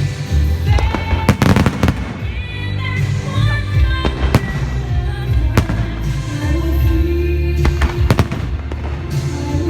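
Aerial fireworks shells bursting with sharp bangs every second or so, over music with a melody and heavy bass.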